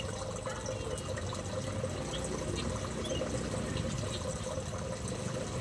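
Steady rushing noise like running water, with a few faint, short chirps from small aviary birds.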